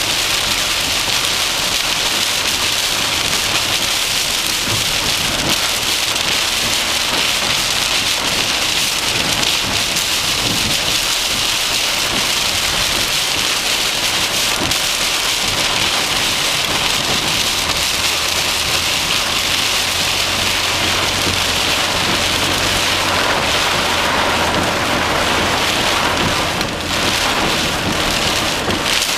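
Heavy rain falling hard on a vehicle in a thunderstorm: a dense, steady hiss with no letup. A faint low hum joins about midway.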